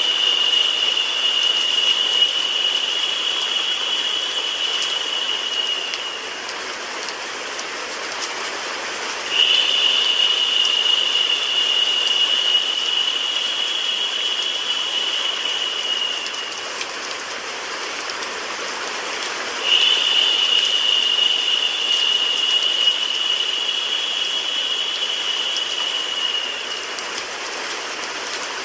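Steady rain mixed with white noise, an even hiss with no low rumble. About every ten seconds a brighter, higher-pitched hiss swells in for some seven seconds and then drops away, three times, as the recording loops.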